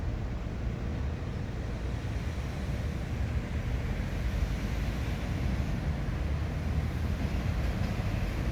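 Steady low rumble of background noise with no distinct events and no audible birdsong.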